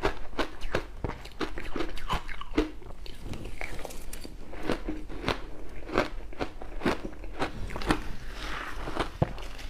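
Close-miked crunching of crushed ice being bitten and chewed, with passion fruit mixed in: a rapid run of sharp cracks and crackles, several a second.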